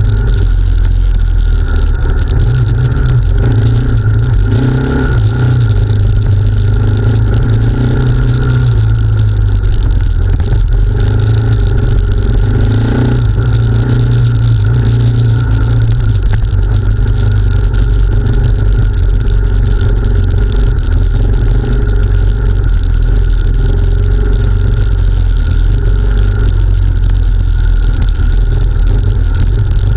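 Off-road motorcycle engine running under way on a dirt track, loud and steady, its note swelling a little a few seconds in and again near the middle.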